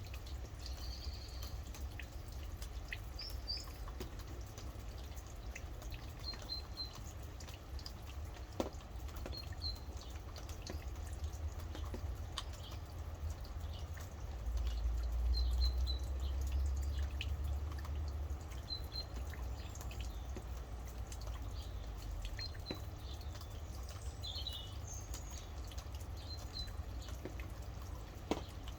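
Rain dripping and pattering in many small, irregular ticks, with birds giving short high chirps now and then. A low rumble underneath swells for a few seconds past the middle.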